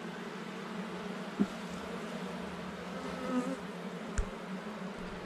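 Honeybees buzzing steadily in a hum around an opened hive, with two sharp clicks, one about a second and a half in and one about four seconds in.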